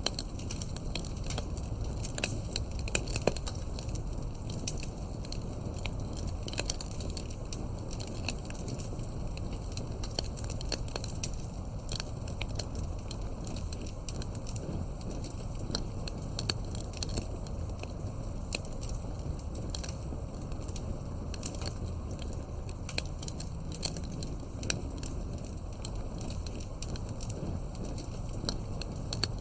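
Campfire crackling: irregular sharp pops and snaps from the burning wood, several a second, over a steady low rumble of the flames.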